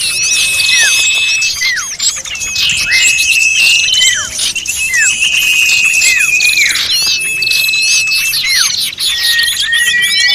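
A dense chorus of small birds calling over one another: long level whistles, quick falling notes and rapid chirps and trills, all at once. This is a bird-lure recording of agitated small-bird calls, used to attract all kinds of small birds.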